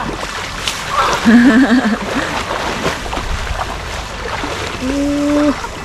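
Rushing floodwater with splashing, louder about a second in, with a short shout and a held vocal call near the end.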